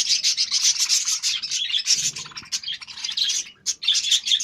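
A flock of budgerigars chattering: many quick, high, overlapping chirps and warbles, nearly continuous, with a short lull about three and a half seconds in.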